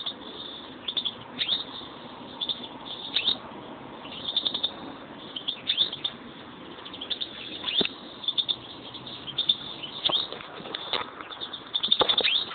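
Pet European greenfinches chirping and twittering in short, frequent bursts of high calls, some sweeping quickly downward, with a denser cluster of sharp clicks near the end.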